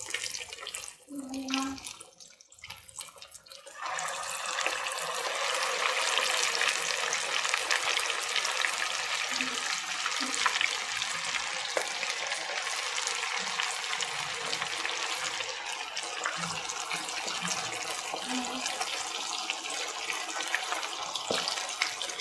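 Masala-coated chicken pieces frying in hot coconut oil in a pan: a steady sizzle full of small crackles. It starts suddenly about four seconds in, after a quieter, patchy start.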